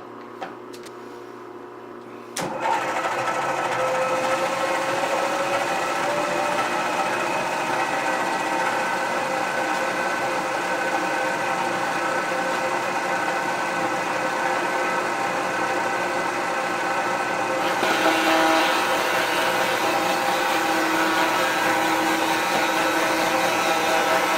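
Milling machine starting up about two seconds in and running with a steady mechanical whine. Its pitch rises over the next few seconds as the spindle speed is turned up toward about 300 RPM for a slitting saw. About 18 seconds in the sound gets louder and harsher.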